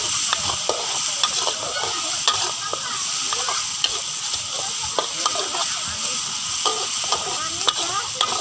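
Blended spice paste with lemongrass stalks sizzling in hot oil in a steel wok. A metal spatula scrapes and taps against the wok as it is stirred, over a steady frying hiss.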